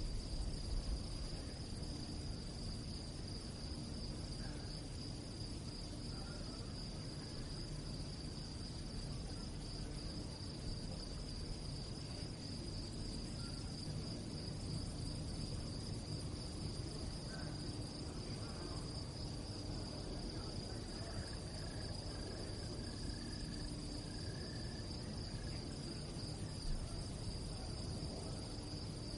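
Crickets chirping in a steady, continuous high trill at night, over a low background rumble.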